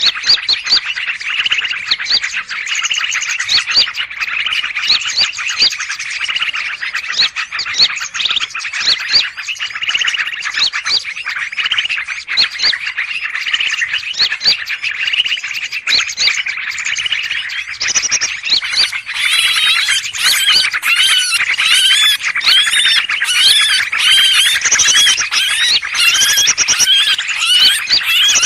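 A noisy commotion of many birds calling at once: a dense, unbroken tangle of chirps and gliding call notes. It is a 'ribut' lure recording played to draw in greater green leafbirds (cucak ijo) for trapping. About two-thirds of the way through, the calls grow louder, busier and higher-pitched.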